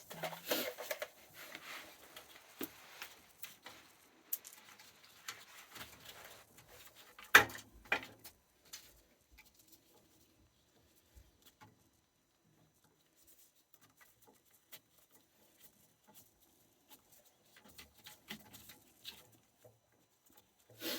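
Hands wiring a replacement oil-boiler control: scattered light clicks, scrapes and rustling of wires and parts, with two sharp clicks about seven to eight seconds in, then only sparse faint ticks.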